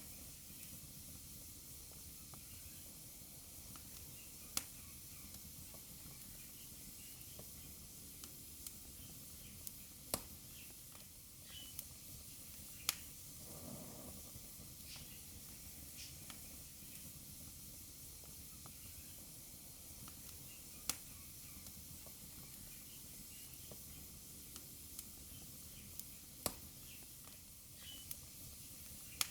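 Wood fire burning in a fireplace: a soft steady hiss with scattered sharp crackles and pops, about five loud ones and many smaller ones, and a brief soft rush of flame about halfway through.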